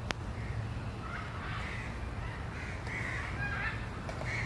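Crows cawing repeatedly, short rough calls one after another, over a steady low background rumble, with a single sharp click at the very start.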